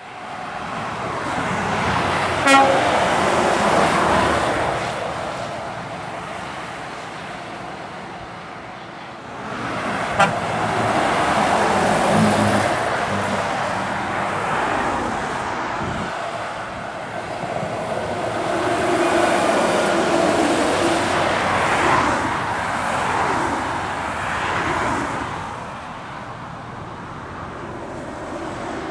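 Heavy trucks pass one after another, their engines pulling hard on a long uphill climb, each swelling and fading as it goes by. A short horn toot sounds about two and a half seconds in, and another about ten seconds in.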